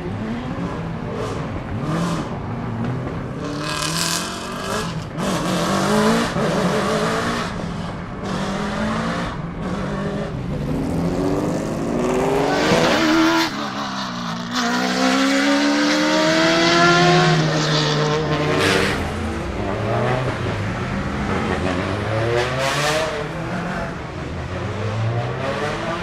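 Ford Raptor T1+ Dakar rally truck's 5.0-litre V8 revving through repeated hard accelerations, its pitch climbing and dropping again and again, with bursts of tyre noise.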